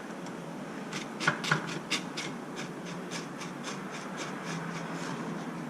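Light clicks and scraping as parts of an RC truck's drivetrain are pried and lifted out of their plastic housing, a few small ticks a second over a low steady hum.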